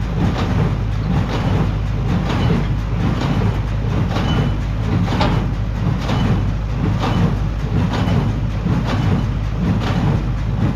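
Tractor pulling a hay baler, its engine running steadily under a rhythmic knock about once a second.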